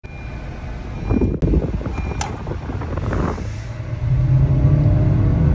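Honda Vezel Hybrid accelerating hard from a standstill, heard from inside the cabin: road and tyre rumble with two sharp clicks, then from about four seconds in the engine drones loudly, its pitch climbing slowly as the speed builds.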